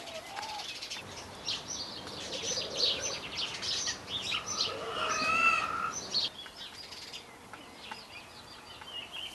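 Small birds chirping and singing in quick runs of high notes, with a louder, wavering call about five seconds in.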